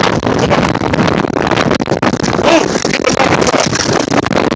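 Tornado winds gusting hard across the microphone: a loud, rough rushing with constant buffeting.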